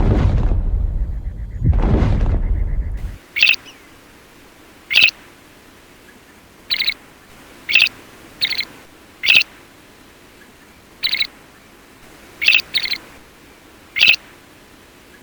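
A loud, deep sound swells twice and cuts off about three seconds in. Then an animal, most likely a bird, gives short high-pitched calls about once a second or so, some in quick pairs.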